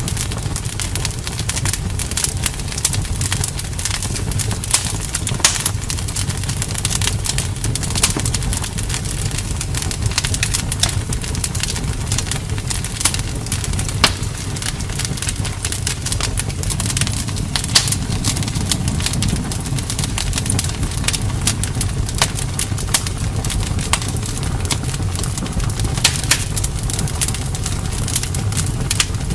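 Campfire burning: a steady low rumble of the flames with frequent sharp crackles and pops of the wood.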